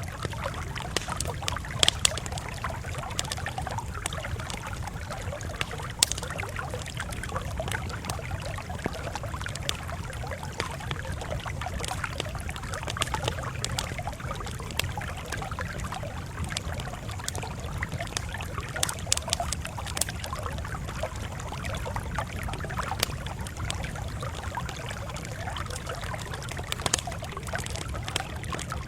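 Campfire crackling, with scattered sharp pops standing out over a steady low rumble.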